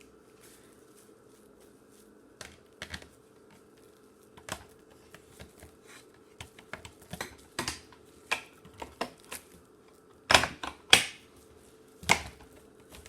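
Irregular plastic clicks and taps from handling a cordless vacuum's parts and buttons, the loudest cluster about ten seconds in, over a faint steady hum.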